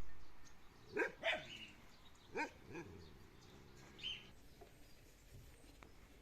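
A dog barking: two pairs of short barks, then a fainter, higher call about four seconds in.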